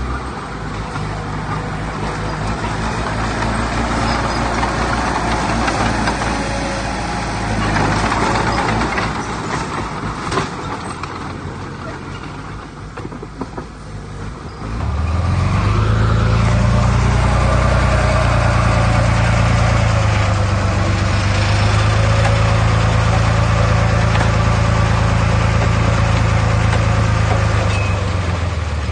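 Heavy diesel earthmoving machinery running. About halfway through the engine revs up sharply to a loud, steady drone under load, and it holds there until just before the end.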